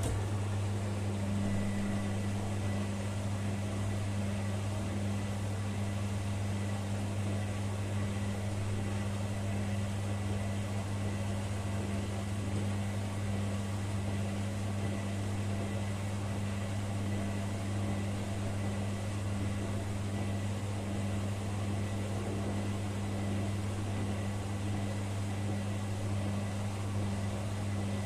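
Beko washing machine running with a steady low hum that holds one pitch, over a faint hiss.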